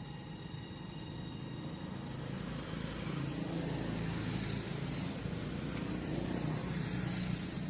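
A motor vehicle's engine running with a steady low hum that grows louder about three seconds in.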